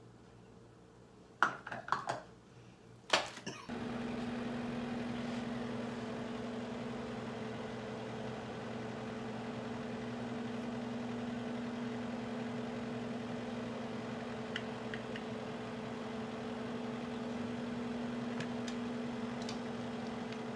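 Microwave oven being started, with a few clicks and knocks in the first few seconds, then running with a steady electrical hum as it cooks the peanut brittle mixture.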